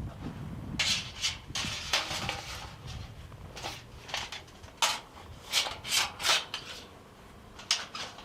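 A string of irregular rubbing or scraping strokes, each short, with several sharper ones around the middle.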